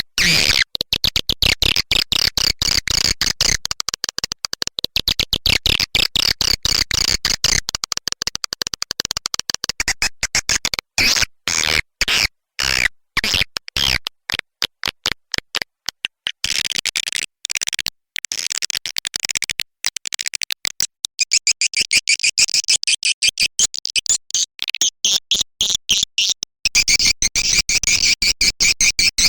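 Edible-nest swiftlet call recording: a dense, rapid chatter of clicking, twittering chirps, broken by many short gaps, thinning to a higher, purer twitter about two-thirds of the way through. It is the lure ('call') sound played to draw swiftlets into a swiftlet house.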